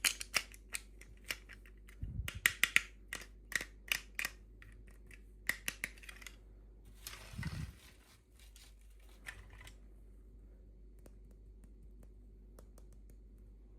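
Sharp clicks and snips of small toy packaging being opened and handled, with a short rustle about seven seconds in. After that there are only a few light ticks.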